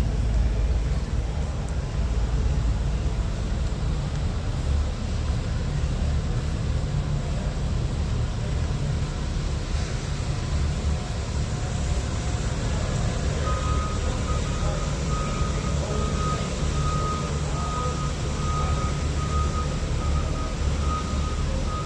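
Steady low rumble of a large exhibition hall's background noise. A little past halfway through, a repeated high-pitched beeping starts and keeps going.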